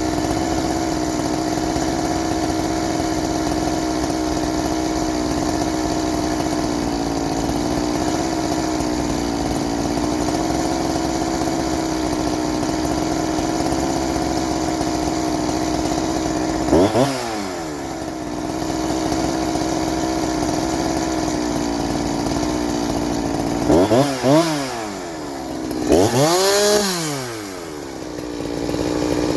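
Farmertec G372XT chainsaw, a two-stroke Husqvarna 372XT clone with a ported cylinder, running at steady high revs as it works through a cut. About 17 s in, and twice more near the end, the revs fall away and climb back up as the throttle is eased and reopened.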